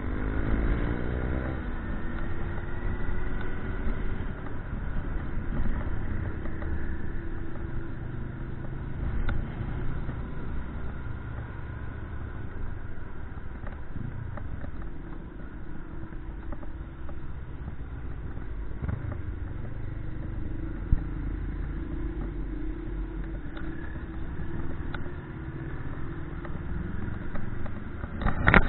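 Motorcycle engine running with a steady low rumble of wind and road. Its pitch climbs in the first two seconds as it accelerates, then holds steady. A brief loud noise near the end.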